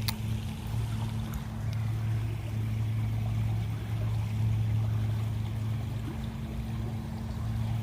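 A steady low mechanical drone, like an engine running, holding one deep hum with a fainter tone above it.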